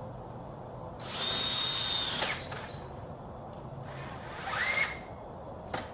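Power drill driving a self-drilling Tek screw into the frame: a run of just over a second at a steady whine that winds down, then a shorter run that speeds up, and a sharp click near the end.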